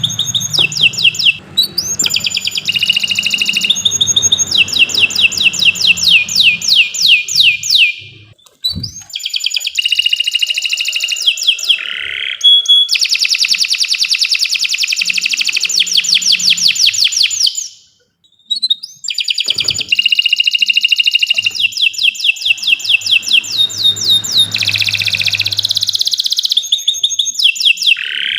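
Domestic canary singing a long, continuous song of rapid trills and repeated notes, phrase after phrase, with two short breaks about 8 and 18 seconds in.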